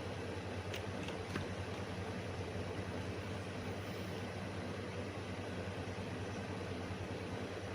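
Steady low hum and hiss of background noise, with three faint clicks about a second in.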